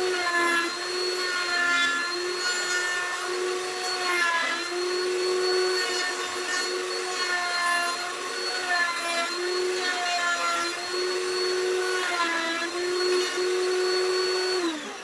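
Router spinning a 1/4 inch roundover bit at high speed with a steady whine, its pitch dipping briefly each time the bit bites into the edge of a wooden knob. Near the end it is switched off and the whine falls away.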